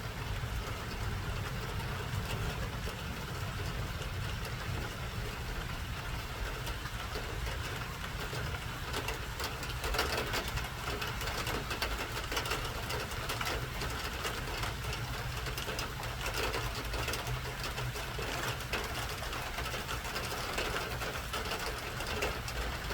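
Rain running in house gutters: a steady low rumble of water with a patter of drops tapping over it, the patter growing thicker about ten seconds in.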